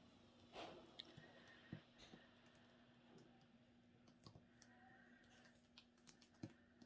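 Near silence: room tone with a low steady hum and a few faint scattered clicks and taps.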